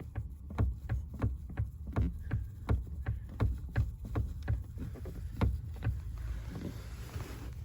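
Nissan Sentra steering intermediate shaft (cardan joint) being rocked back and forth, knocking lightly about three times a second: free play in the joint, which forum advice puts down to a loose clamp bolt. The knocking stops about five and a half seconds in, leaving a soft rustle.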